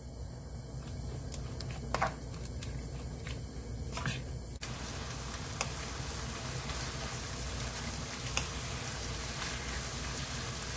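Fish cake sheets stir-frying in a gochujang sauce in a frying pan, stirred with a wooden spatula. For the first half there are only a few clicks and scrapes of the spatula against the pan; from about halfway in there is a steady sizzle with stirring.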